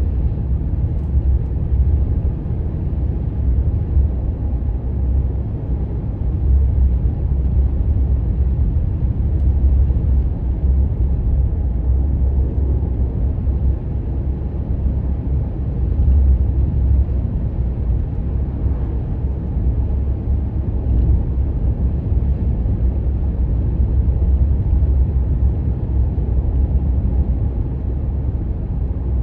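Steady low rumble of a vehicle being driven, heard from inside the cab: engine and road noise holding an even level with no sharp events.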